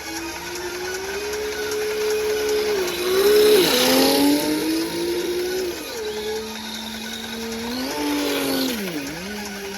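RC drift car's simulated engine sound from an onboard sound unit, its pitch stepping and gliding up and down as the throttle is worked. A loud hiss rises over it about three seconds in, typical of the tyres sliding through a drift.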